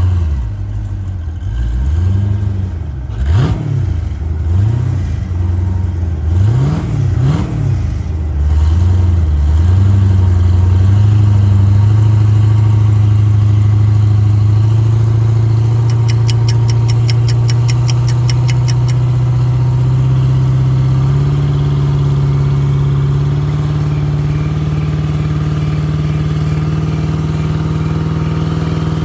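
Compound-boosted Jeep Grand Cherokee Trackhawk's supercharged Hemi V8, with added turbos, revved in several quick blips. It then settles into a steady drone that slowly rises in pitch.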